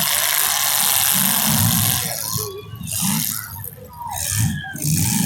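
Demolition derby cars' engines running and revving in bursts under a steady noisy din, which thins out for a couple of seconds past the middle.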